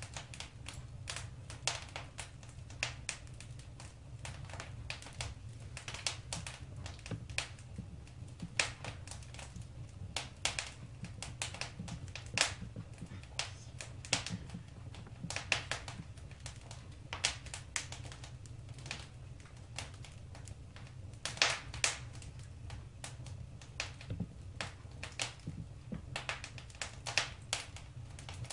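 Wood fire burning in a fireplace, crackling and popping irregularly several times a second over a steady low rumble.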